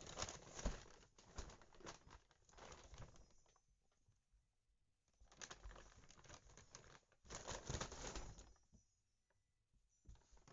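A bag rustling and crinkling as cats tussle and play in it, in three bouts with short pauses between.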